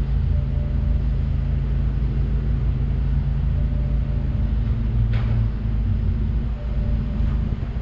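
BMW E92's engine idling with a steady low rumble. A faint short tone comes about every three seconds.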